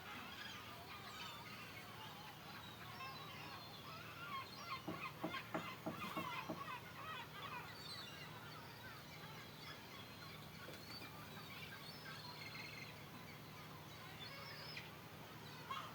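A flock of gulls calling, many cries overlapping, with a burst of loud rapid calls about five seconds in. A faint steady low hum runs underneath.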